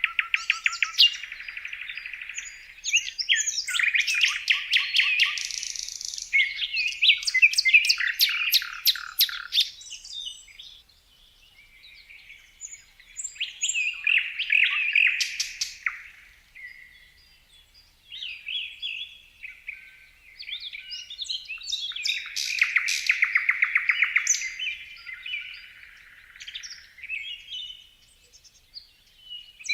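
Several birds chirping and singing in overlapping bursts of quick high-pitched notes and rapid trills, with brief lulls about eleven and seventeen seconds in.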